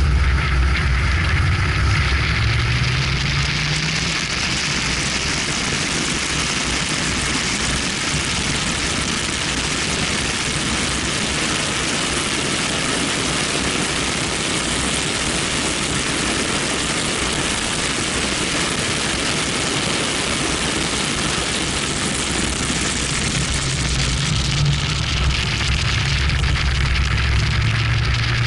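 BMW 1M's twin-turbo straight-six accelerating, its note rising over the first few seconds. Then a steady rush of wind and road noise over the outside-mounted camera covers the engine. Near the end the engine note climbs again.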